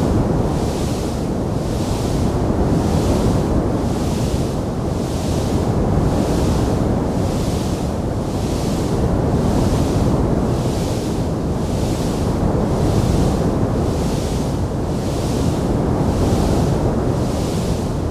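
Wood fire burning in a stone fireplace, heard as a steady low rushing noise with a hiss that swells and fades about once a second; no separate pops or crackles stand out.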